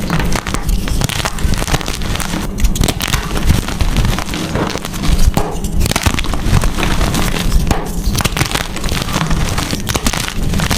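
Blocks of gym chalk being crushed and crumbled, a dense run of crisp crunches and crackles with powder falling apart.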